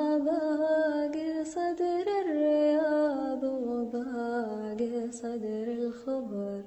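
A solo voice singing Arabic poetry in long, drawn-out melismatic notes with no clear words, the melody sliding slowly downward toward a low final note near the end.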